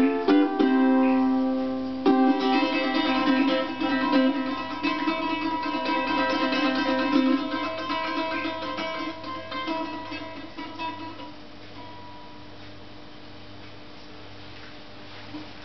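A plucked string instrument playing the closing bars of a tune: a few struck chords, then fast repeated picking from about two seconds in that gradually fades, leaving a faint held note near the end.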